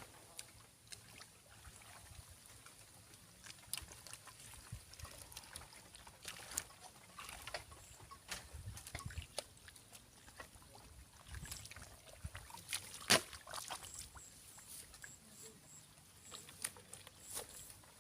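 Irregular splashing and sloshing of shallow muddy water being worked by hand, with many small scattered clicks and one sharper splash about 13 seconds in.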